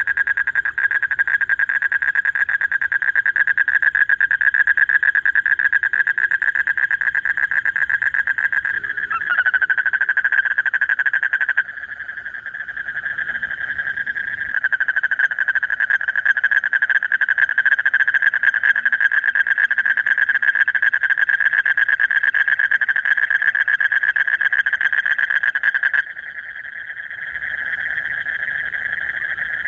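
Male common Asian toads giving their long, continuous pulsed trill, the advertisement call a male makes in the breeding season to draw a female. The trill barely pauses and changes slightly in pitch and loudness about a third of the way in and again near the end.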